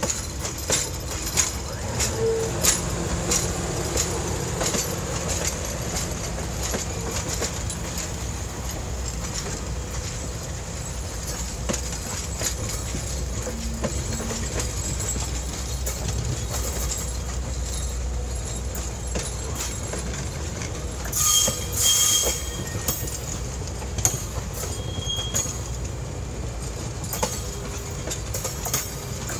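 Passenger train coaches rolling slowly past in reverse on steel rails: a steady low rumble with the wheels clicking over rail joints, and a brief high wheel squeal about 21 seconds in.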